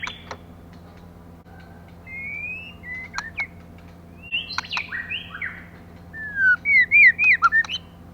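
Female white-rumped shama calling with scattered clear whistled glides and sharp clicking notes. About six and a half seconds in comes a louder run of quick up-and-down whistles.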